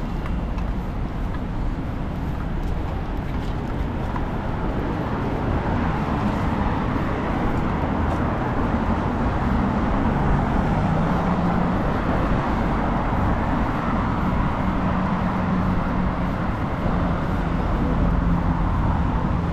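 Road traffic: a steady hum of passing vehicles, with a low engine drone growing stronger in the second half.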